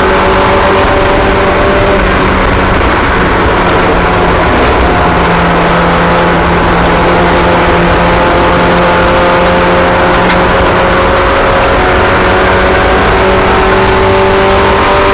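Several small race car engines running together at speed, their pitches slowly drifting up and down as the cars lap.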